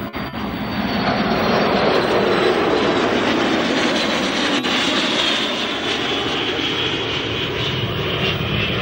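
Aero Vodochody jet trainers (the L-39 Albatros and L-29 Delfín types) flying past. The jet noise swells about a second in, is loudest around two to three seconds in, then eases off, with a high whine falling slowly in pitch as they go by.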